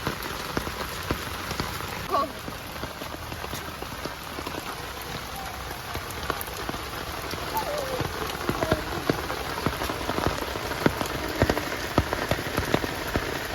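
Rain falling steadily, with many separate drop ticks, growing a little louder in the second half. A few short gliding calls sound about two seconds in and again around eight seconds.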